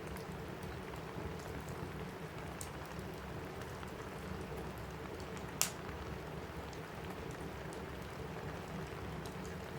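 Steady rain falling on a roof, with scattered small crackles of a wood fire and one sharper pop a little past halfway.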